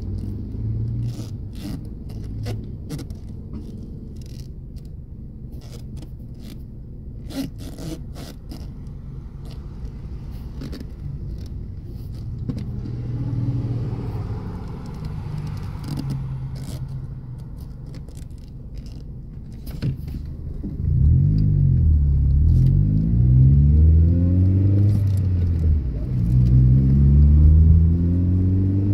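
Car engine idling, with scuffs and clicks of flat shoes on the pedals and floor mat. About two-thirds of the way through, the engine gets louder and is revved again and again, its pitch rising and falling with each press of the accelerator.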